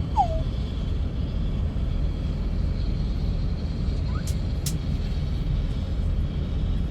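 Steady low rumble of aircraft engines, with a short falling chirp just after the start and two sharp ticks a little over four seconds in.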